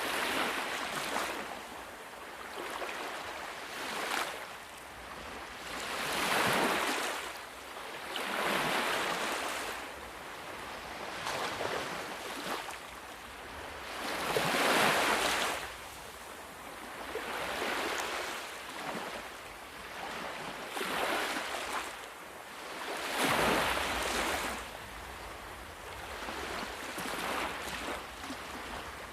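Sea waves breaking one after another, each wash of surf swelling and fading every two to four seconds.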